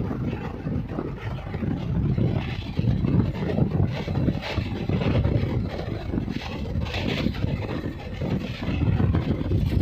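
Express passenger train running at speed, heard from an open coach door: a steady rumble of wheels on rail mixed with wind rushing past, with a few sharper clacks about four and seven seconds in.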